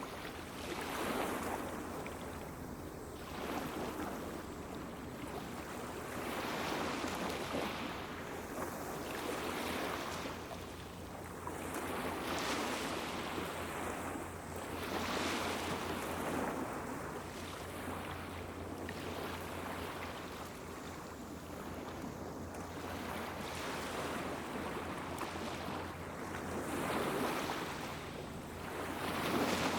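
Small waves washing onto a beach in repeated swells every two to three seconds, with a steady low hum underneath.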